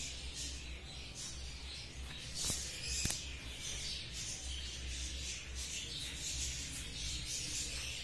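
Small birds chirping: many short, high chirps over a steady low hum, with two sharp clicks about two and a half and three seconds in.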